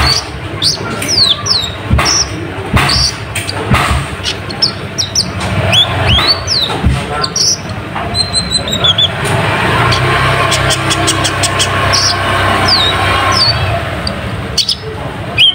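Kolibri ninja (konin) sunbird singing busily: a noisy string of short, sharp high chirps and falling whistle notes, with quick rattling trills and a fast run of ticks near the middle.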